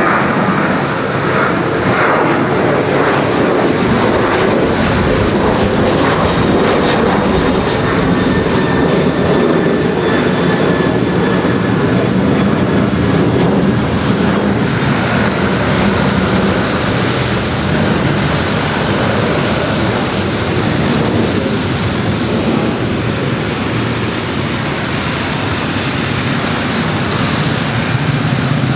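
Jet airliner's engines running steadily, a loud even rush with a thin whine that slowly falls in pitch over the first dozen seconds.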